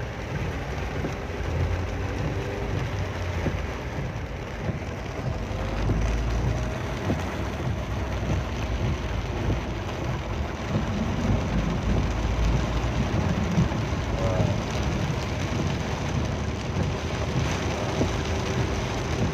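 Heavy rain pouring steadily, with a low, uneven rumble underneath from a vehicle moving through the storm.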